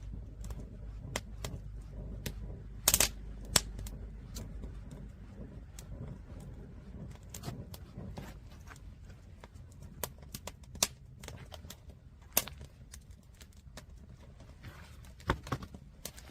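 Wood fire crackling, with irregular sharp pops and snaps over a low rumble, the loudest cluster of pops about three seconds in.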